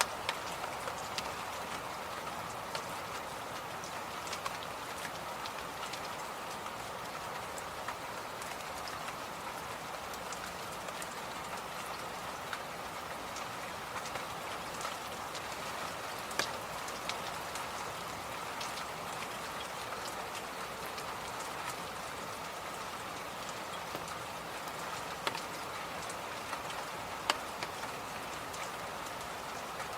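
Electric fan running steadily, an even rushing noise with scattered faint clicks and one sharper click near the end.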